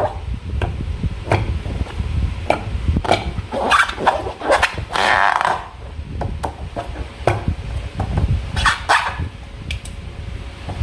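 Slime being squished and pulled by hand: an irregular run of wet clicks and squelches, with longer squelches about four, five and nine seconds in.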